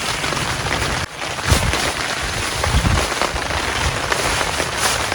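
Rain falling, a steady hiss, with a brief drop-out about a second in.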